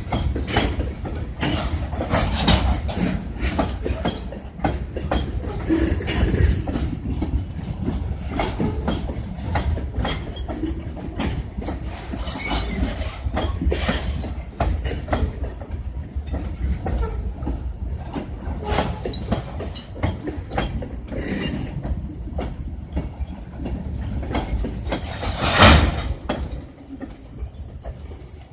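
Freight train cars rolling past, wheels clicking and clattering over rail joints over a constant low rumble. A single loud clank comes near the end, and then the sound drops away.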